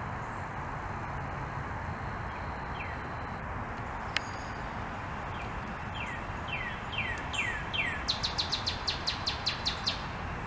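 A songbird singing a few falling whistled notes, then a fast run of short, higher notes near the end, over a steady outdoor hiss. A single sharp click comes about four seconds in.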